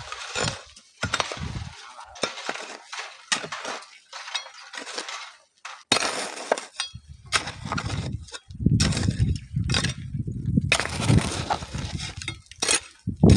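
Gritty crunching and clinking of sand and stones being worked by hand, with wind buffeting the microphone as a low rumble from about eight seconds in.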